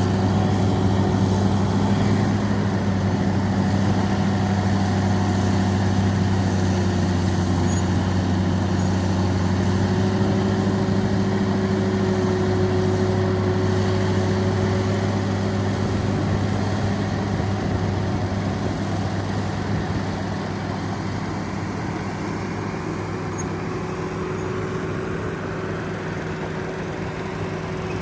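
A heavy engine running steadily at constant speed, a low even drone that eases off a little in the second half.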